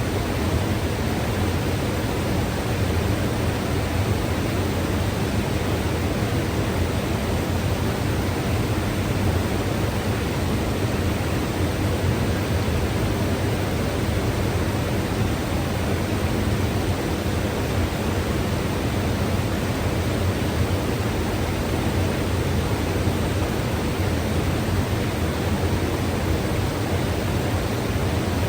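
Mountain river running steadily: a continuous, even rush of water, fullest in the low end.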